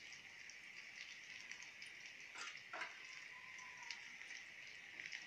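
Faint sizzling and crackling of raw mango wedges and cumin seeds frying in oil in a kadai, with two short knocks a little past halfway.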